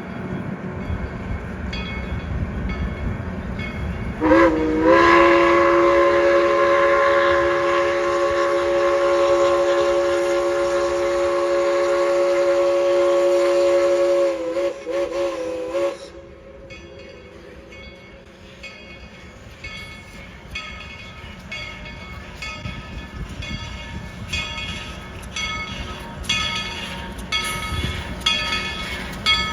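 Tweetsie Railroad steam locomotive #190 sounding its chime whistle in one long blast of about eleven seconds: the chord bends up in pitch as it opens, holds steady, wavers briefly and cuts off. The running train rumbles under it, and after the whistle stops a regular rhythmic clatter goes on.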